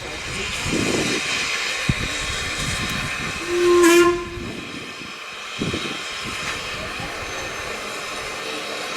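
Steam locomotive whistle blown once in a short toot about four seconds in, over the steady hiss of escaping steam from the engine.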